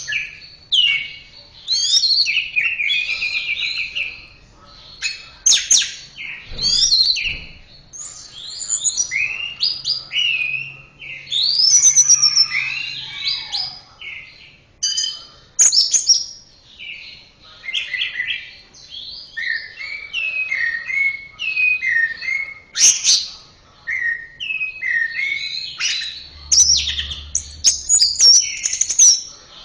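Orange-headed thrush (anis merah) singing: a long, varied song of loud whistled phrases, slurred notes and quick chattering runs, one after another with brief pauses.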